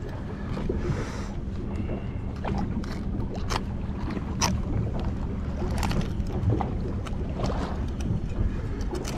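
Sounds aboard a small fishing boat: a steady low hum, water and wind on the microphone, and scattered sharp knocks and taps.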